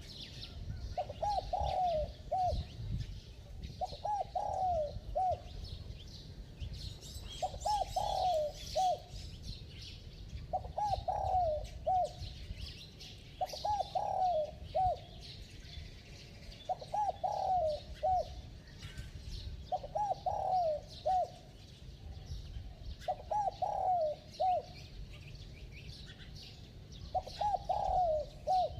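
Spotted dove cooing: a short phrase of a few notes, repeated about every three seconds. Small birds chirp faintly and high behind it.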